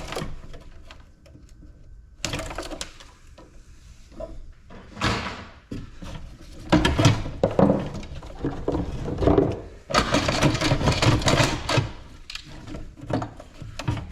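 Plastic and metal parts of a small ice maker knocking, scraping and rattling as they are pried and pulled apart by hand, in a run of irregular clunks and clicks with a busier stretch of scraping and rattling near the end.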